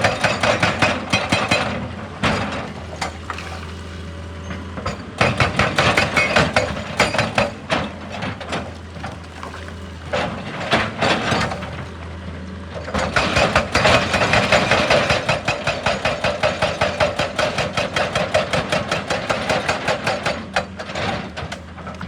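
Excavator-mounted hydraulic breaker hammering rock in several bursts of rapid, even blows, with the excavator's diesel engine running steadily underneath.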